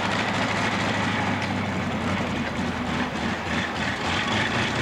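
A competition pulling tractor's big multi-cylinder engine, fitted with 24 spark plugs and 24 exhaust pipes, running steadily with a deep hum.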